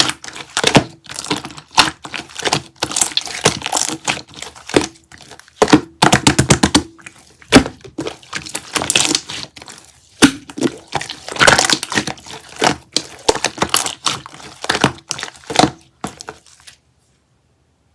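Close crackling and crinkling with dense clicks, coming in irregular bursts, as something crinkly is handled and pressed. It stops suddenly near the end.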